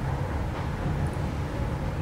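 Steady low rumble with a faint hiss: background room noise between words.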